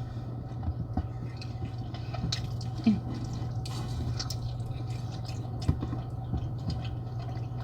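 Wet eating sounds: sauce-coated shrimp being handled and chewed, with small scattered clicks and squelches over a steady low hum.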